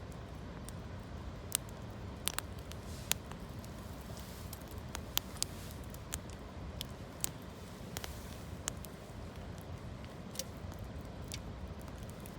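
Campfire of gathered branches crackling, with sharp pops at irregular intervals, a few seconds apart at most, over a steady low rumble.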